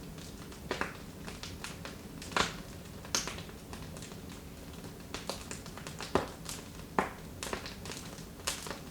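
Wood fire crackling in a fireplace: irregular sharp pops and snaps, a handful of them loud, over a low steady background.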